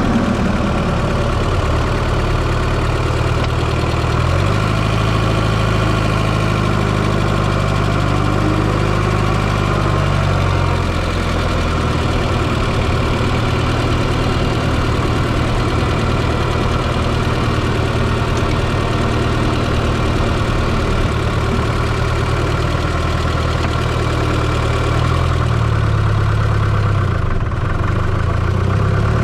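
1995 Fiat Coupé 2.0 16V turbo four-cylinder engine running steadily near idle, heard up close from the engine bay. Its revs rise a little about four seconds in, drop back around eleven seconds, and begin climbing again near the end.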